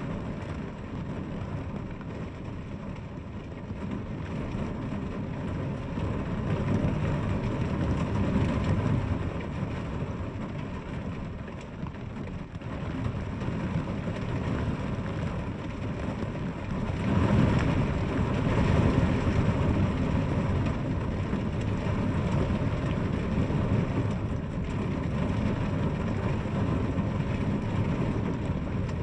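Steady rain falling, with a deeper rumbling swell about 17 seconds in.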